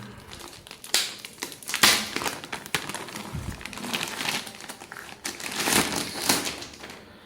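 Packaging crinkling and rustling in irregular bursts as books are unwrapped and handled.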